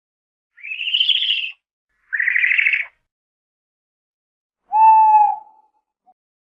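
Owl calls: two harsh, raspy screeches of about a second each, then a single clear hoot about five seconds in that drops in pitch at its end.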